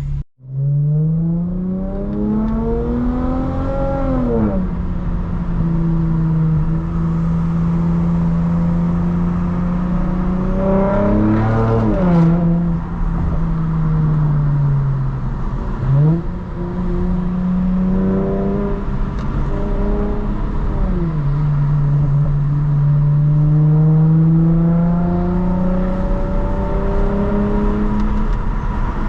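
2022 Lexus IS350's V6 exhaust, with a Tsudo mid-pipe that has no secondary cats and a muffler-delete axle-back, while driving. The engine note climbs for about four seconds and drops with an upshift, then holds steady, and rises and falls again several times as the gears change.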